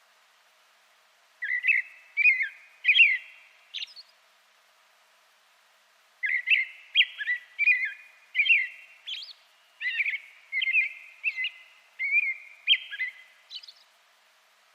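Songbird singing: quick, sharp chirps and short down-slurred whistled notes, in a brief bout about a second and a half in and a longer run from about six seconds until near the end.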